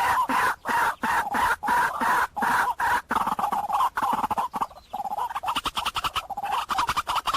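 White-breasted waterhen calling: a loud, repeated croaking 'kru-ak' about three times a second, breaking into a faster run of notes in the second half.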